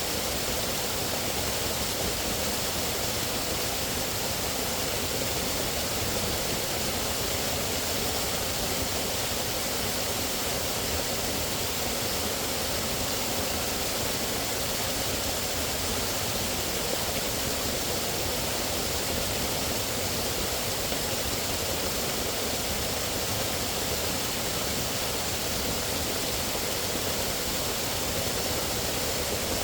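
Steady rushing water, an even hiss that does not change and has no separate splashes or calls in it.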